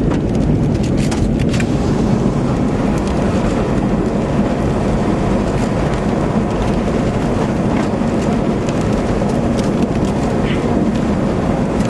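Steady rumble of a vehicle's road and wind noise, heard from inside the car with a window open. A few short clicks come about a second in.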